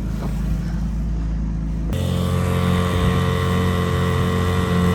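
Small Evinrude outboard motor on a dinghy running steadily at low speed. About two seconds in, it changes abruptly to a different steady engine drone with a clearer, even tone.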